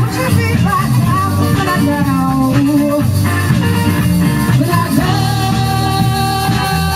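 Live band playing a rock song with guitar.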